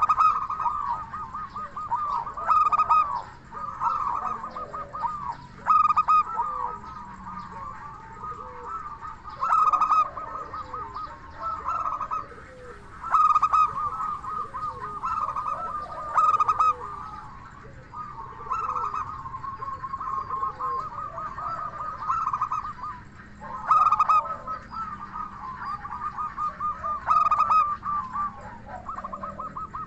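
Zebra doves (perkutut) cooing: a continuous run of rippling, trilled coos with louder phrases every two to four seconds.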